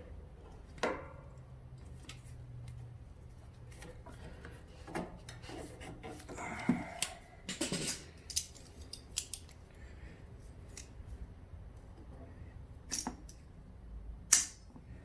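Small hand tools clicking, snipping and scraping on metal while the fuel line of a riding mower's engine is worked loose, in scattered sharp clicks with a busier stretch around the middle and the loudest click near the end.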